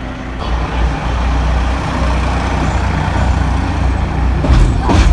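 Diesel engine of an Mk45 narrow-gauge locomotive running under a steady low rumble, with the running noise growing louder about half a second in and a brief sharper sound near the end.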